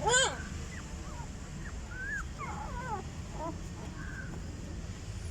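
A dog gives one sharp, loud yelp, followed by several short, high whimpering calls, over a steady low background rumble.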